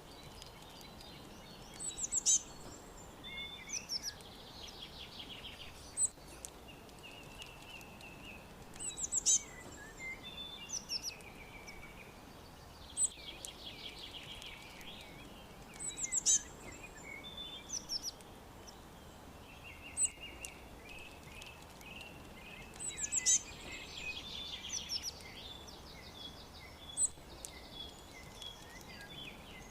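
Wild birds chirping and singing: sharp high chirps and short buzzy trills that come every few seconds over a steady background hiss.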